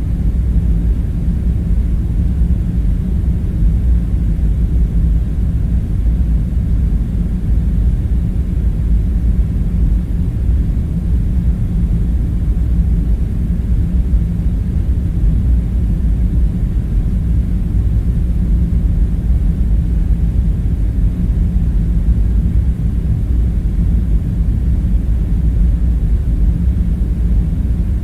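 Steady low rumbling drone with a faint hum, unchanging throughout: a constant background ambience bed with no distinct events.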